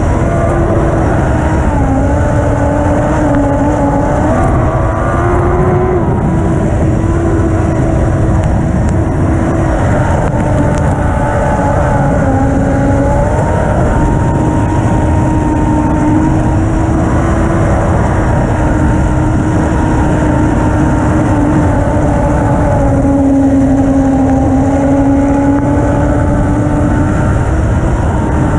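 Lightning sprint car engine running hard and steady, its pitch holding with only small dips now and then, over a dense low rumble.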